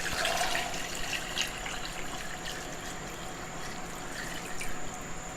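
Water being poured into a crock pot of chicken bones and vegetables: a steady trickle of liquid, a little louder at first.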